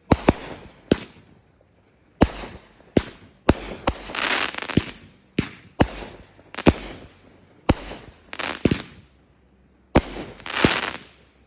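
Fireworks going off: about a dozen sharp bangs at irregular intervals, some followed by a longer crackling, with a couple of brief lulls.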